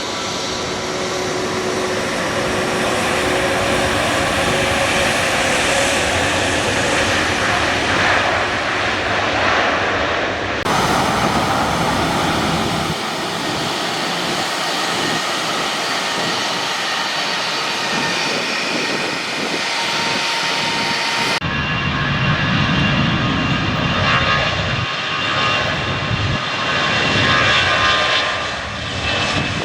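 Airliner engines running loud and steady, with several whining tones over a dense rushing noise. The sound changes abruptly about 11 seconds in and again about 21 seconds in, as the recording cuts between shots.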